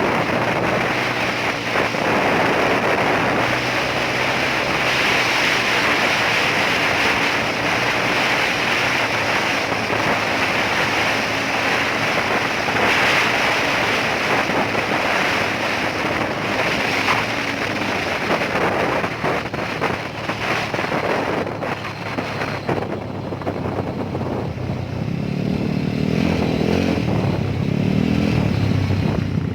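Motorcycle on the move: steady wind and road rush over the microphone with the engine running underneath. Near the end a low engine hum comes up louder.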